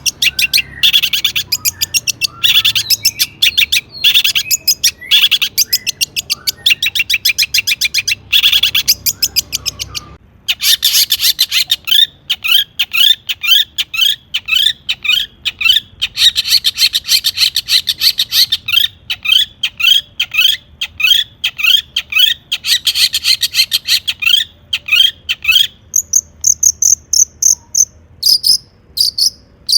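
Long-tailed shrike singing loudly: a fast, dense chatter of repeated high notes, then after a short break a long run of quick upward-sweeping notes, about three or four a second, ending in a few higher, thinner calls.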